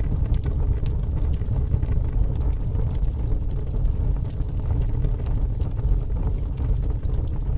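Fire burning with a steady low roar and scattered sharp crackles and pops.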